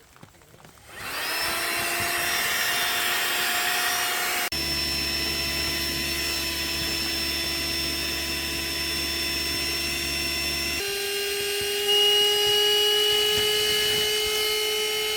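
Small electric motor of a handheld vacuum cleaner running with a steady whine, its pitch jumping twice, then falling as it winds down at the end; it is being used to clean sand and dirt off the tent floor.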